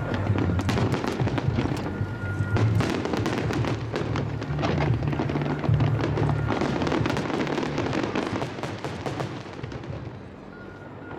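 Aerial fireworks display: dense crackling and popping shell bursts with bangs, thinning out near the end.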